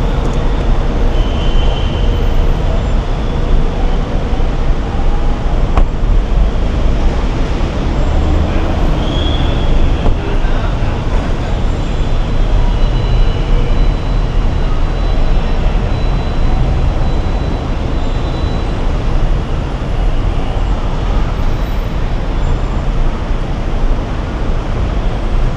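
Steady rumble and road noise of a moving vehicle, heard from inside it, running at an even level with no clear separate events.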